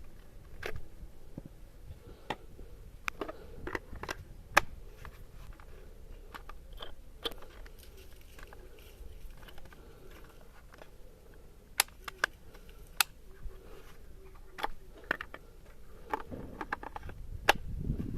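Irregular clicks, taps and light scrapes of small hard parts being handled, with a few sharper knocks.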